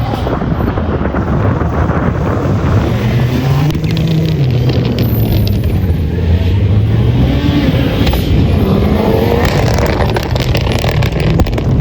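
Audi Quattro Group B rally car's turbocharged five-cylinder engine revving hard, its note rising and falling with each gear change and lift, with sharp crackles in the second half.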